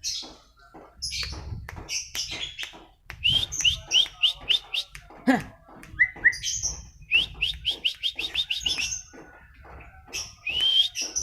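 White-rumped shama (murai batu) singing: a fast, varied run of sharp notes and clicks. About three and a half seconds in comes a trill of repeated rising whistles, and a faster trill follows around seven seconds in.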